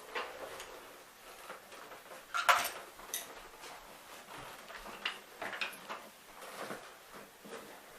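Hollow plastic knocks and clatter from a Hoover WindTunnel MAX upright vacuum being flipped over and handled, the loudest a single knock about two and a half seconds in.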